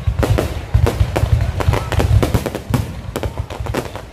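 Low-altitude display fireworks going off in a rapid, irregular series of sharp bangs and deep booms, several a second.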